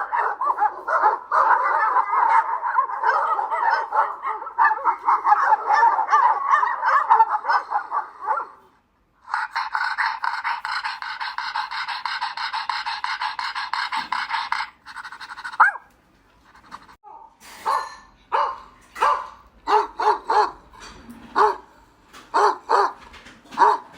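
Several puppies yelping and barking over one another in a dense chatter, broken by a brief gap, then about ten separate barks at uneven intervals near the end.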